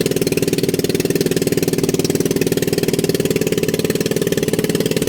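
A small engine running steadily at an even speed, with a fast, regular firing pulse.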